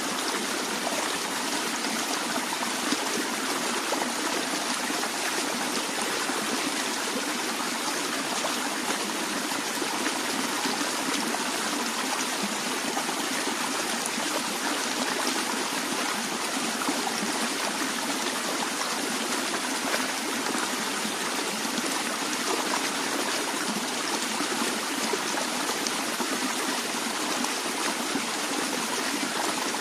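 Naturally flowing water running steadily: an even, unbroken rush with little deep rumble.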